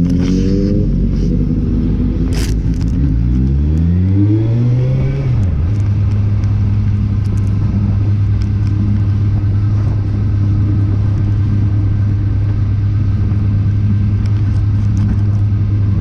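Motorcycle engine accelerating, its pitch rising through two gears in the first five seconds, then settling into a steady cruising drone.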